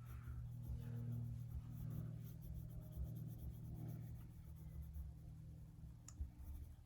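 Faint scratching of a drawing tool stroking across paper as small ovals are drawn, over a steady low hum, with one sharp click near the end.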